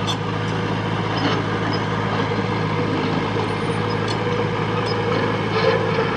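Heavy diesel engine of earthmoving equipment running steadily under light load, with a few faint clanks.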